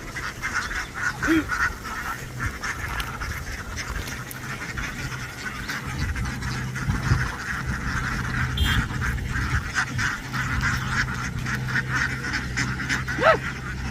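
A flock of domestic ducks quacking continuously, with many short calls overlapping into a constant chatter.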